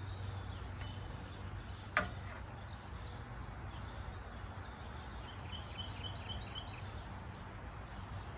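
Outdoor background with a steady low hum. There is a single sharp click about two seconds in, and a little later a bird chirps a quick run of about eight short, high notes.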